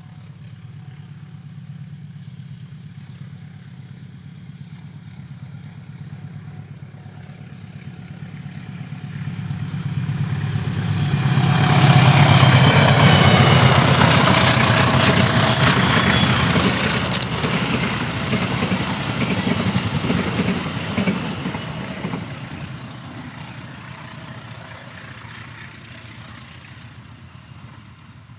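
A diesel-electric locomotive hauling passenger coaches approaches, passes close and recedes. Its low engine drone builds to a loud peak as it goes by, then the coaches' wheels rumble past and the sound fades away over the last several seconds.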